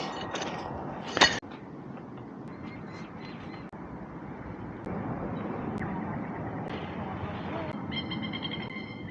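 Steady rushing outdoor background with a bird calling in quick repeated notes near the end. There is one sharp click about a second in.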